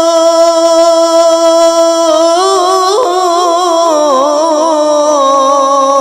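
A voice singing a gojol, a Bengali Islamic devotional song. It holds one long, steady note for about two seconds, then moves into a wavering, ornamented melodic run without words.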